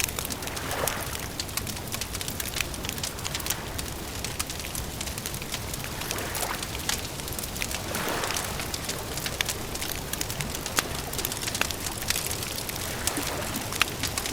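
Campfire crackling with many sharp snaps and pops over a low rumble, with soft swells rising and fading every few seconds.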